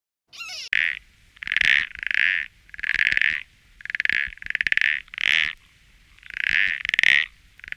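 A frog calling: a run of about ten short, buzzy, pulsed croaks, one every half second or so with a short pause around the middle.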